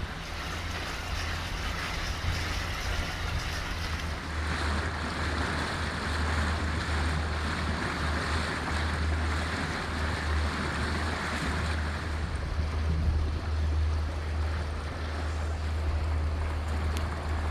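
Boat under way: a steady low motor drone with water rushing past the hull and wind on the microphone.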